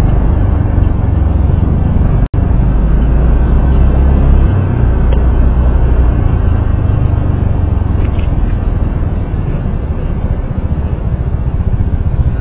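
Loud, steady low rumble of a road vehicle under way: engine, tyre and wind noise. There is a brief cut-out in the recording a little over two seconds in.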